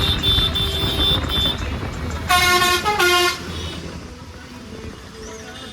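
Vehicle horn honked twice in quick succession about two and a half seconds in, the two blasts together lasting about a second, over the steady rumble of street traffic.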